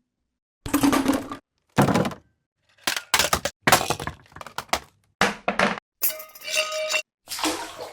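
A quick run of short sound-effect library previews played back one after another, about eight in all, each an object hitting the ground. Some thud and some break, and one about six seconds in rings with clear tones. Each preview cuts off abruptly before the next.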